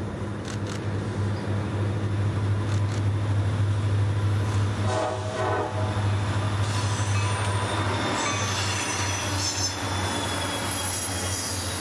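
A CSX diesel freight locomotive consist approaching and passing with a steady low engine drone, loudest as the locomotives go by, with a brief horn sound about five seconds in. After the locomotives pass, the freight cars roll by with high squealing from the wheels on the curve.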